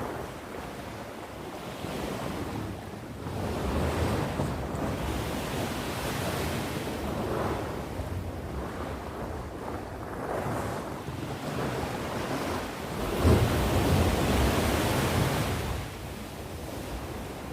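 Sea waves breaking and washing up the shore in repeated surges, the biggest wave breaking about thirteen seconds in.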